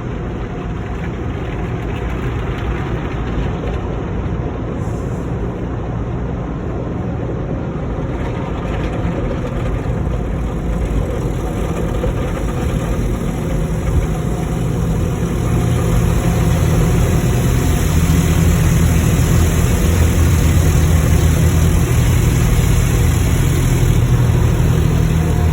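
Automatic car wash machinery running: a steady rumble and hiss that grows louder about halfway through.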